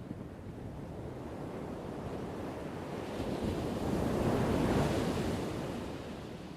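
Ocean wave breaking and washing ashore. The surge of water builds to its loudest about two-thirds of the way through, then fades away.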